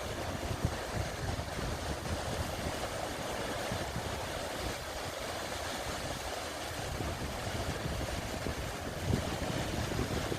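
Sea waves washing onto a sandy beach, a steady rushing surf noise with wind buffeting the microphone.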